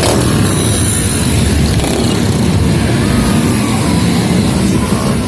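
Motorcycle engines running loudly, a steady dense rumble with a faint rise in pitch in the middle.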